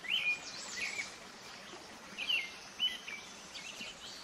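Small birds chirping: about five short, sharp chirps a half-second to a second apart, over a steady background hiss.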